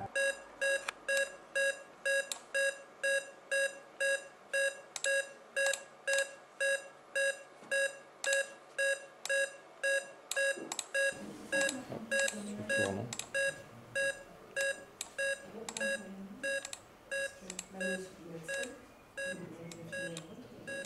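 Hospital patient monitor beeping with each heartbeat: short pitched beeps at a steady pace of just under two a second, growing fainter near the end.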